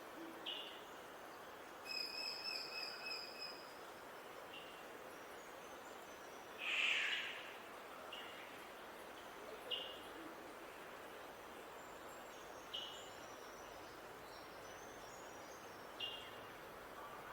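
Wild birds calling over a steady background hiss: short single chirps every few seconds, a held whistling note about two seconds in, and one loud harsh call about seven seconds in, the loudest sound here.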